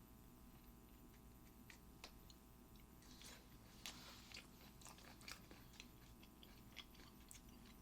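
Quiet close-up chewing: soft scattered mouth clicks of a person eating mackerel sashimi, over a faint steady hum.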